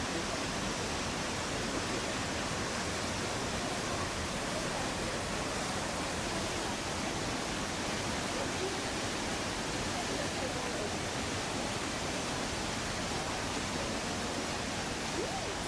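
Steady rushing of a waterfall's falling water, an unbroken even roar.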